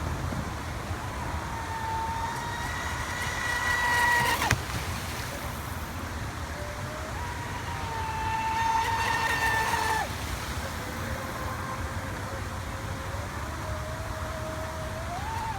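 Brushless electric motor of a radio-controlled speedboat whining on two high-speed runs. Each run swells and ends with a sudden cut, about four and a half seconds in and again about ten seconds in. Between and after the runs there is a lower, steadier whine at part throttle.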